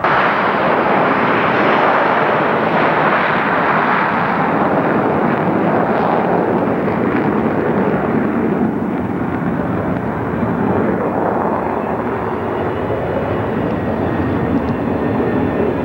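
Airliner engines at takeoff power, a loud steady rush of noise that settles lower in pitch over the later seconds as the aircraft moves on.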